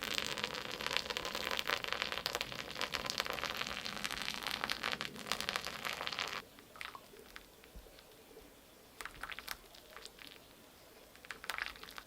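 Dense crackling and crinkling, like packaging being handled, for about six seconds, stopping suddenly. A few scattered clicks and taps follow.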